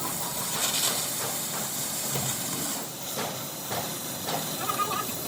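Steady hissing work noise in a steel fabrication shop, with a few sharp metallic knocks spread through it and a brief high tone near the end.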